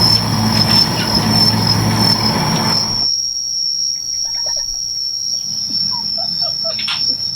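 A steady high-pitched insect trill that holds one pitch throughout. For the first three seconds it sits over a noisy background with a low hum. After that the background drops away, leaving a few short faint chirps.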